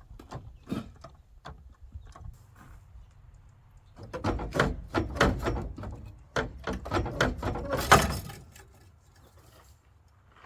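Jack being pumped with a short handle, giving a quick run of metallic clanks and rattles from about four seconds in, loudest just before it stops near eight seconds; a few lighter clicks come earlier.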